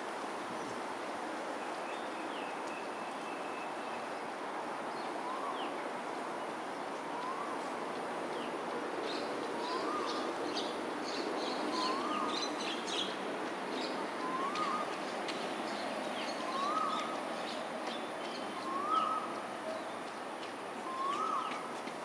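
A bird calling a repeated short rising note, eight times about every two seconds from about five seconds in, each call a little higher and louder than the last. Faint high chirps come and go in the middle, over a steady background hum.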